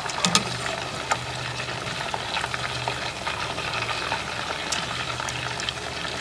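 Battered chicken pieces deep-frying in hot cooking oil: a steady crackling sizzle with scattered small pops, and a couple of sharper clicks about a quarter second in.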